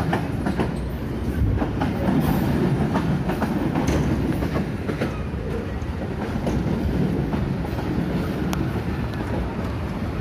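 Passenger train carriages rolling past, a steady heavy rumble with wheels clacking over the rail joints.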